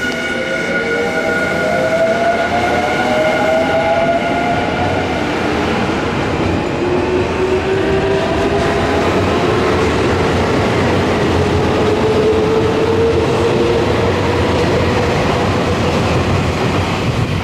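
Nankai electric train pulling out of the platform: its motors whine steadily upward in pitch as it gathers speed, over the rumble of wheels on the rails.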